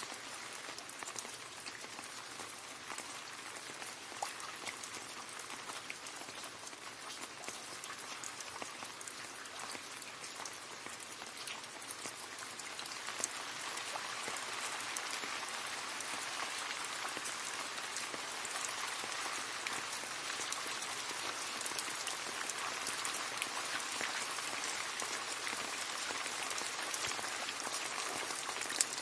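Rain falling into a puddle: a steady hiss with many small drop splashes, getting a little heavier about halfway through.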